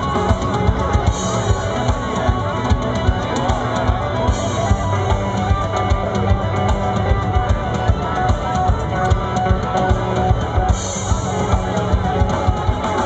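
Loud rock music with a drum kit and guitar, a fast steady beat of drum hits under sustained notes.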